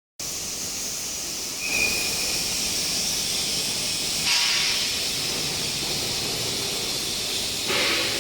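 A steady hiss, with short louder bursts about four seconds in and again near the end.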